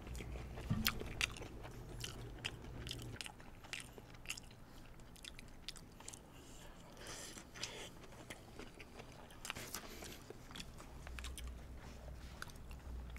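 Two people chewing mouthfuls of fried chicken burger: faint chewing with scattered crunches.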